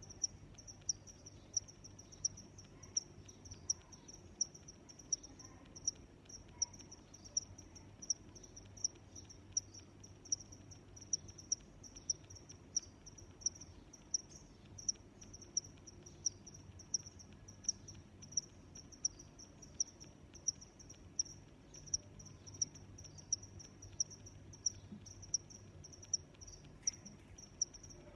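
A cricket chirping in a steady, even rhythm, a short high-pitched chirp about one and a half times a second, over a faint low background hum.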